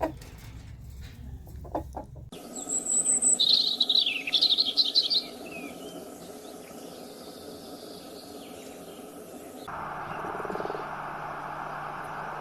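Animal calls from a string of short clips joined by cuts. A few brief clucks come first, then a bird's quick, loud chirping calls for about three seconds, and a steady noisy hum sets in near the end.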